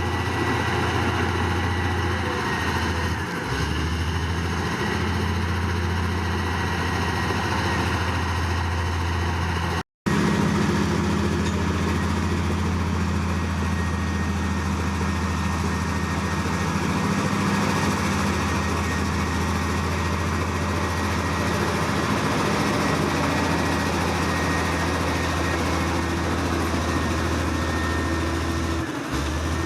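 Heavy diesel earthmoving machinery running steadily, a deep engine drone with a faint steady high whine over it. The sound cuts out for an instant about ten seconds in, then the same running sound carries on.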